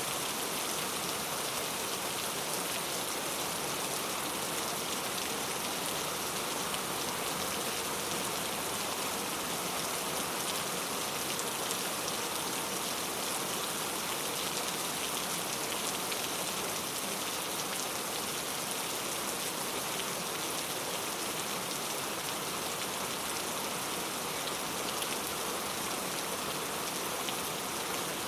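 Heavy rain falling steadily, a dense even hiss of drops with fine close patter and no letup.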